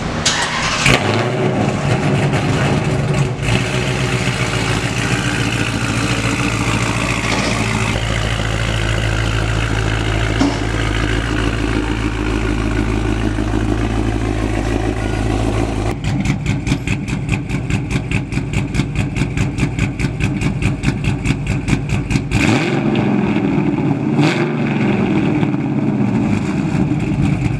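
5.7-litre V8 running through a newly welded exhaust: a steady low drone for the first half, then about halfway through it changes abruptly to a fast, even pulsing exhaust note, with two short louder swells near the end.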